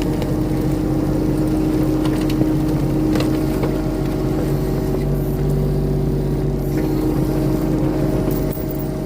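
Mini excavator's diesel engine running steadily, its pitch dipping and rising slightly as the hydraulics take load while the thumb and bucket work a tree branch.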